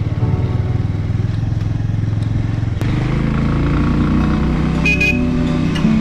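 Bajaj Avenger 180's single-cylinder engine running while riding; a little under halfway through, a music track with held, stepping notes comes in over it.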